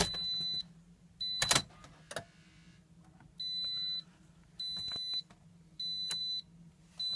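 A 2010 Toyota RAV4's dashboard warning chime beeping steadily, about once every 1.2 seconds. Under it come key clicks and a brief starter crank about two seconds in, as the engine cold-starts on a freezing morning.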